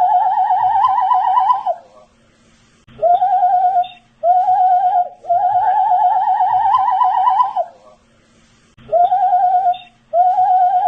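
A man whistling in wavering notes, short ones and longer held ones that drift slightly upward in pitch, with a pause of about a second between phrases.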